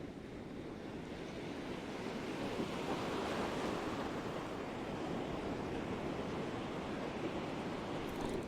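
Surf breaking on a sandy beach: a steady rush of waves that swells louder about two to three seconds in and stays up.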